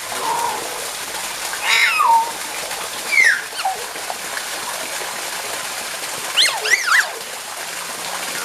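Nias hill myna calling: a loud descending call about two seconds in, a short falling whistle about a second later, and a quick cluster of whistles near the end. A steady rush of water runs underneath.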